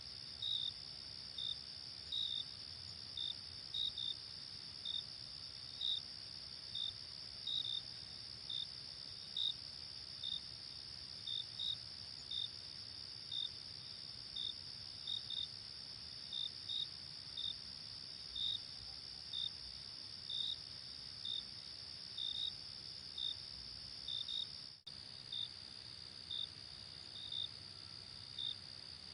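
Night insect chorus: a steady high trill with a cricket chirping over it at a regular pace, about one or two chirps a second. The sound drops out for an instant near the end.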